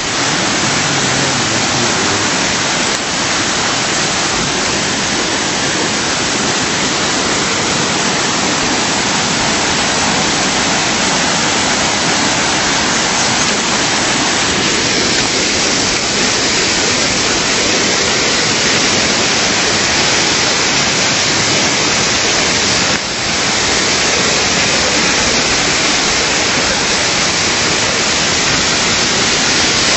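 Loud, steady rush of water pouring down an artificial waterfall.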